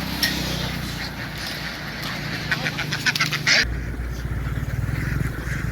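A flock of ducks quacking in dense, overlapping calls. About two-thirds of the way in, the calls drop away abruptly and a steady low hum takes over.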